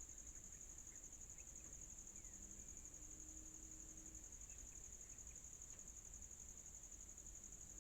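Steady high-pitched insect chorus, faint, with a few brief faint chirps.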